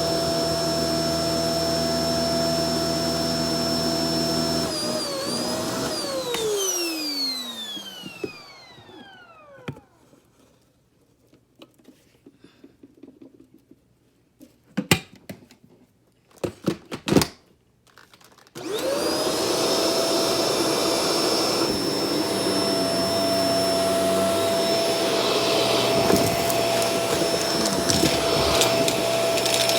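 Shark Professional Powered Lift-Away DLX NV586 upright vacuum cleaner running steadily, then switched off about five seconds in, its motor whine falling in pitch as it spins down. A few sharp clicks and knocks follow in the quiet, then it is switched back on about nineteen seconds in, the whine rising quickly to full speed and running steadily again.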